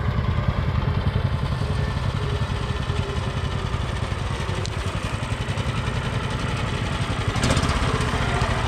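Tractor engine running steadily, its exhaust pulsing quickly and evenly.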